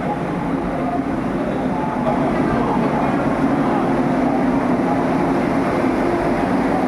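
Steady rumbling noise of the Vande Bharat Express train, with indistinct voices under it; it grows louder about two seconds in.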